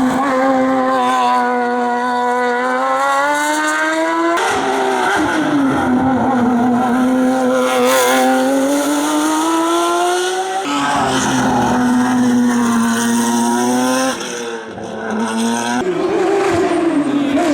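Race-car engines revving hard through the gears on a hillclimb, the pitch rising and dropping with each shift. The sound changes abruptly three times as it cuts from one car's pass to the next, and briefly dips as one car lifts off about three-quarters of the way in.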